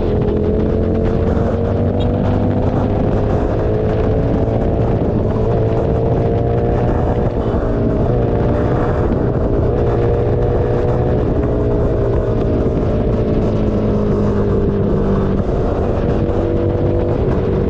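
Keeway SCR 250's 250cc V-twin engine running steadily through a Racefit free-flow exhaust, its pitch drifting slowly up and down.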